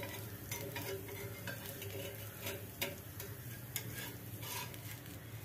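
Dosa frying in oil on a hot cast-iron griddle: a steady, faint sizzle with scattered small crackles and pops.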